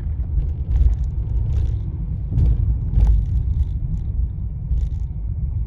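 Car driving along a city street: a steady low rumble of engine and road noise, with a few faint ticks and clicks.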